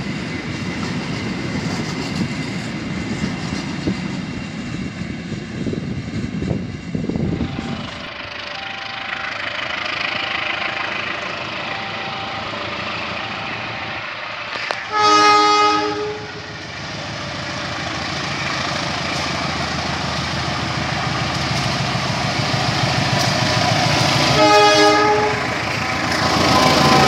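Freight wagons rolling past with a low rumble and wheel clatter; then a CC203 diesel-electric locomotive approaches, sounding its horn twice, about a second each and some ten seconds apart, its engine and train growing louder as it comes by.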